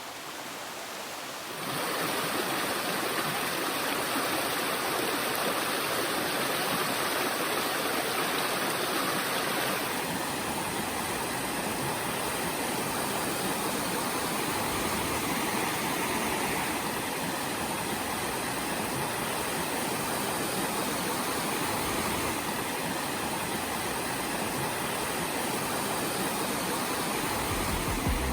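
Steady rush of water, an even wash of noise without pauses; it grows louder about two seconds in.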